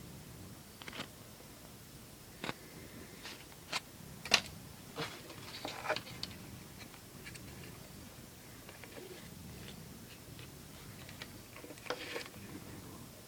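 Irregular sharp clicks and light taps from objects being handled, the loudest a little over four seconds in, a small cluster around five to six seconds and another near the end.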